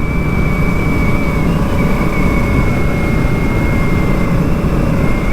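Honda Africa Twin motorcycle riding at a steady speed: steady wind rush on the microphone over the parallel-twin engine and road noise, with a faint steady high whine.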